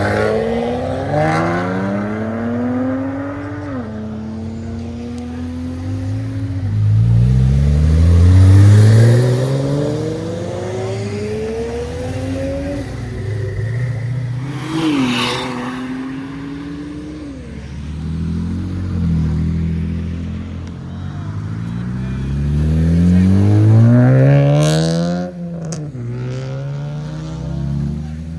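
Cars accelerating hard one after another, each engine note climbing in pitch and dropping at the gear changes. It is loudest about eight seconds in and again near twenty-four seconds, with a sharp crack just after the second peak.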